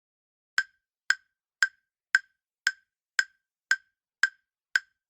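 Countdown timer sound effect: short wooden ticks, nine in all, evenly spaced about two a second.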